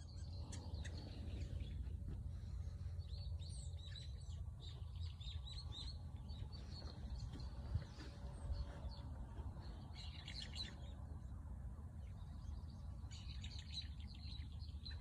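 Small birds chirping and twittering in short bursts, a few times over the span, over a steady low rumble.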